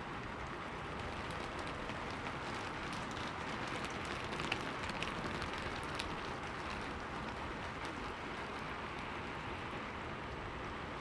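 Steady rain pattering on window glass, with scattered sharper drop taps that come thicker in the middle and a few louder ones about halfway through.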